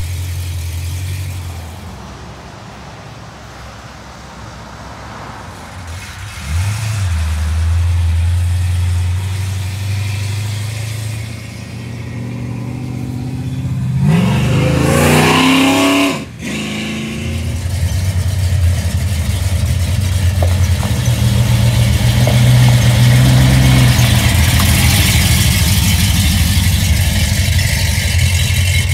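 1968 Chevelle's 396 big-block V8 running with a low, steady exhaust note, revving up with a rising pitch about halfway through and cutting off suddenly, then running louder and steady near the end.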